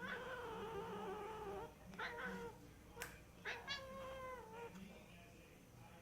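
Domestic cat making strange drawn-out meowing calls: a long one at the start, a short one about two seconds in, and a third, wavering one about three and a half seconds in. A brief sharp click comes just before the third call.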